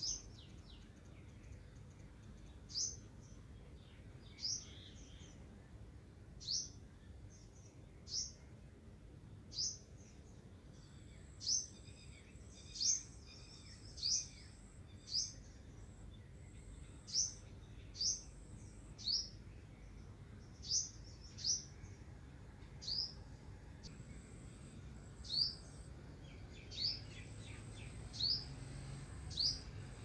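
A bird repeating a single short, downward-sweeping chirp about once every one to two seconds, over a low steady background hum.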